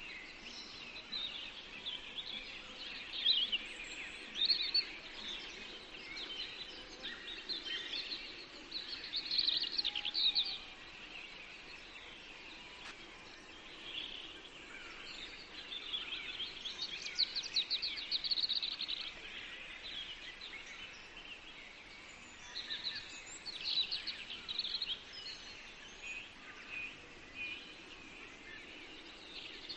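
Several songbirds singing at once in a forest: a dense, overlapping chorus of short chirps, trills and whistled phrases, with busier stretches a few seconds in, around the middle and again later on.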